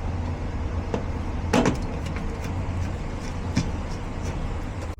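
Indoor furnace blower fan running with a steady low hum, with a couple of sharp metallic clicks about one and a half and three and a half seconds in.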